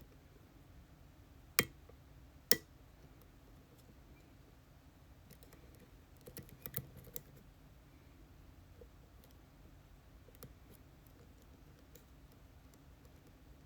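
Sharp clicks and taps from a pin-tumbler lock and the tools working it: two distinct clicks about a second apart near the start, a quick cluster of clicks about halfway through, and faint scattered ticks in between.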